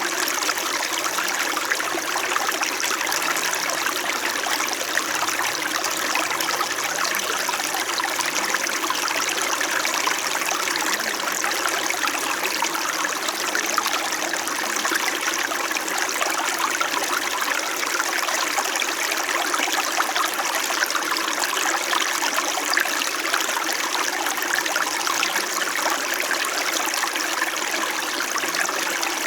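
Small mountain stream flowing and trickling steadily over stones, a continuous even babble of running water.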